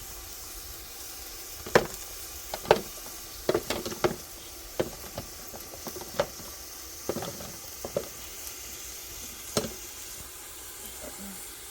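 Food sizzling as it fries in a pan, with irregular sharp knocks of a utensil against the pan while it is stirred; the loudest knocks come about two seconds in.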